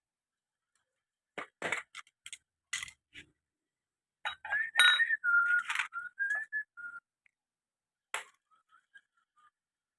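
A few sharp metallic clinks of small engine parts being handled, then a person whistling a few notes that step up and down in pitch, with more clinks mixed in. Fainter short whistled notes follow near the end.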